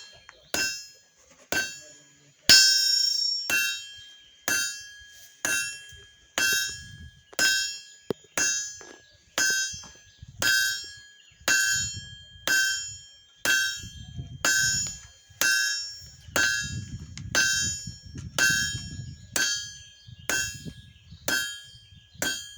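Hand hammer striking hot iron on an anvil at a steady pace, a little more than one blow a second, each blow ringing with a bright metallic tone. The bar's tip is being drawn out to a point for the start of a scroll.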